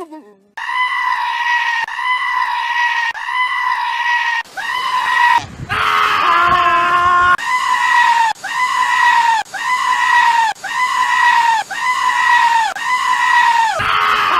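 A goat screaming over and over, about a dozen high, shrill cries of roughly a second each in a steady rhythm. About six seconds in there is a lower, wavering call.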